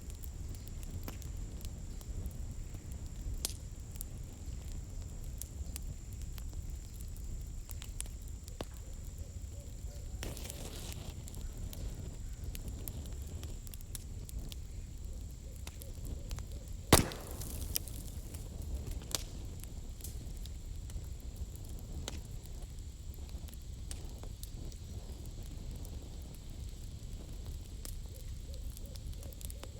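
Wood campfire crackling, with scattered sharp snaps over a steady low rush of flame. One much louder pop comes a little past halfway.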